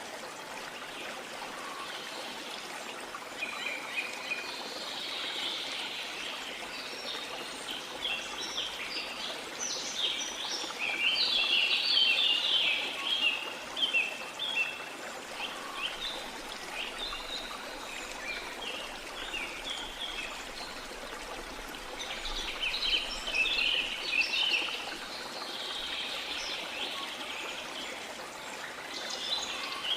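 Rain forest ambience: a river flowing steadily, with birds chirping over it in clusters of quick calls, busiest about a third of the way in and again near the end.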